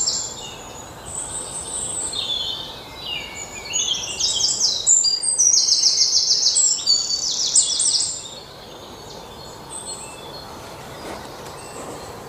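Songbirds singing rapid, high-pitched trilled phrases, overlapping at different pitches and busiest in the middle stretch, then dropping to a few faint calls near the end over a steady background hiss.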